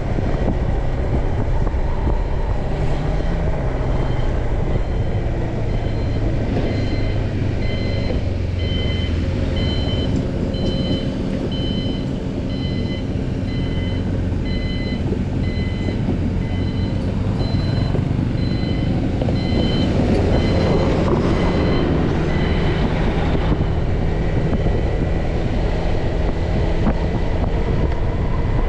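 Motorbike engine running and road and wind noise while riding through traffic. From about six seconds in until near the end, an electronic beep repeats about once or twice a second.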